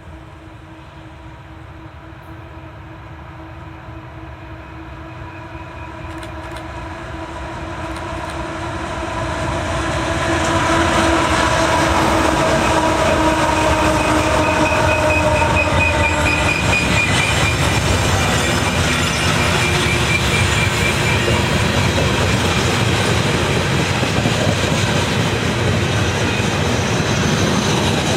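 A train approaching and passing close by. The rumble builds over the first ten seconds or so, then holds as a steady loud run of wheels and cars over the rails, with a brief high wheel squeal about two-thirds of the way through.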